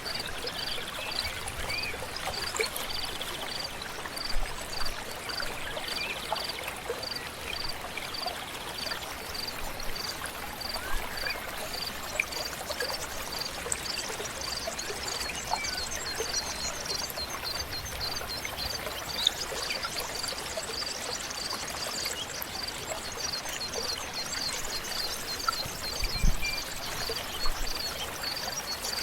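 A river or stream flowing steadily, with a high short chirp repeated about twice a second throughout and other birds chirping over it from about halfway, and a low thump near the end.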